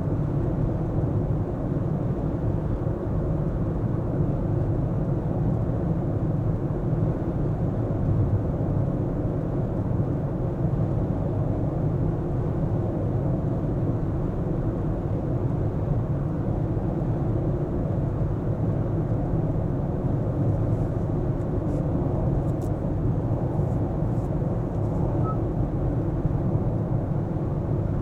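A car driving in city traffic, with steady, even road and engine noise. A few faint clicks come about three-quarters of the way through.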